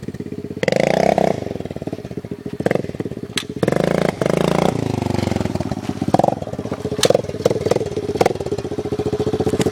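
Kawasaki dirt bike engine revved in short blips between idle, with several sharp cracks in the middle and latter part. It settles back to a steady idle near the end.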